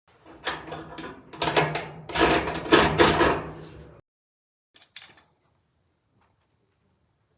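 Clattering knocks and scrapes from parts of a clothes dryer being handled during a heating-element repair, lasting about four seconds, then two brief clicks.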